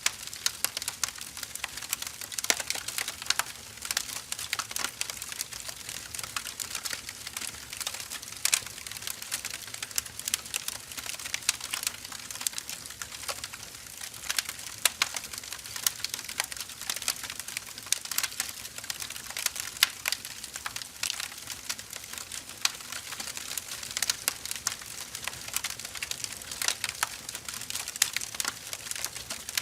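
Wood fire crackling: a dense, irregular stream of small snaps with scattered louder pops.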